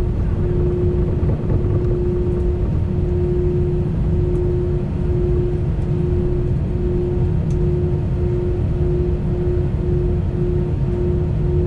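Airbus A320 heard from inside the cabin during takeoff, engines at takeoff power: a loud, steady rumble with a steady hum over it. Over the last few seconds the hum cuts in and out at a quickening rate, as the airliner gathers speed.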